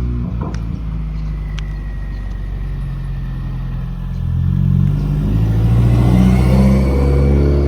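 Car engine running, with a few light clicks in the first two seconds; it grows louder and changes pitch from about four seconds in.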